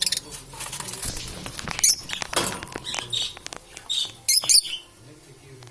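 Lovebirds chirping and chattering in short, high, scattered bursts, with clicks between them.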